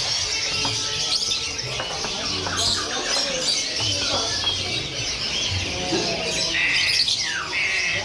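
Many caged songbirds chirping, trilling and calling over one another in a dense, continuous chorus. Near the end there are two short steady high notes.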